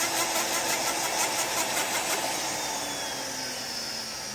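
Small rotary tool's motor spinning a sanding disc against a silver nameplate, with a fast rhythmic scratching of the disc on the metal that stops a little past halfway, after which the motor's hum slowly drops in pitch as it winds down.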